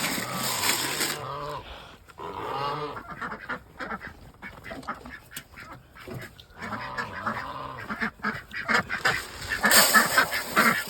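Domestic ducks and geese calling with short, scattered honks and quacks. There is a burst of rushing noise in the first second and a louder one near the end.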